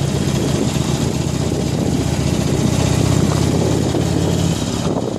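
Harley-Davidson Iron 883's air-cooled V-twin running steadily while the motorcycle is ridden, its note easing off a little near the end.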